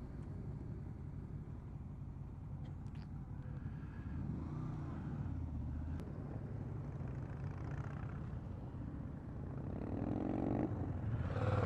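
Motorcycle engine running while riding along, with the engine note climbing briefly near the end.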